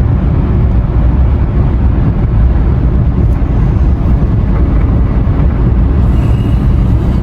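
Car driving along a road, with a steady low rumble of road and engine noise heard inside the cabin.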